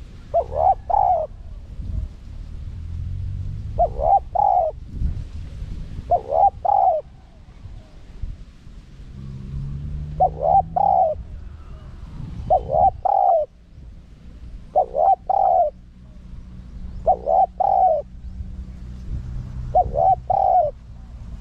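Spotted dove cooing: a short phrase of about three notes, the last one drawn out, repeated every two to three seconds, about eight times. This is a male's song of the kind used as a lure call to draw wild doves in.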